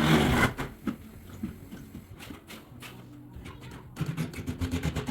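Tyre-changing machine at work fitting a winter tyre onto a rim: a loud burst of noise at the start, then the machine running, with a fast clicking rattle over a low hum during the last second or so.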